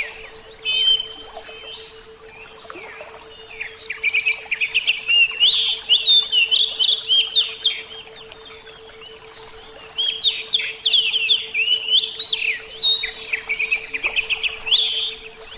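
Oriental magpie-robin (kacer) singing in three spells of rapid, varied whistled phrases, with short pauses between them, over a steady low hum.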